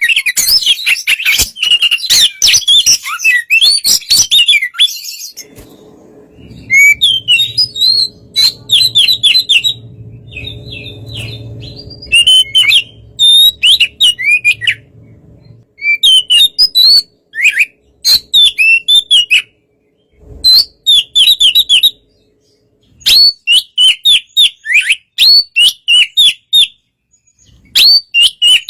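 Oriental magpie-robin (kacer) singing: loud, rapid phrases of whistled upward and downward sweeps and chattering trills, dense at first and then broken by short pauses. A low hum runs underneath for several seconds in the middle.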